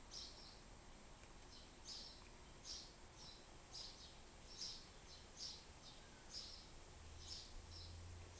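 Faint outdoor background with a small bird's short, high chirps repeating about one to two times a second; a faint low hum comes in near the end.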